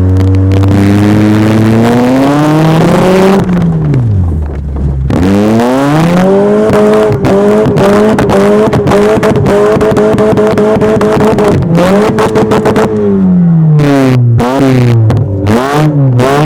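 Pontiac Sunfire's 2.2-litre four-cylinder engine revving hard in a burnout, its bald tires spinning on the deck of a flatbed tow truck. The revs climb for about three seconds, sag, climb again and hold high for about six seconds, then fall away with a few quick blips near the end.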